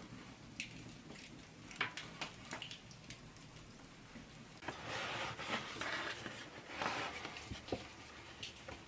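Small handling sounds: scattered light clicks and taps, with a stretch of soft scraping and rustling between about five and seven seconds in.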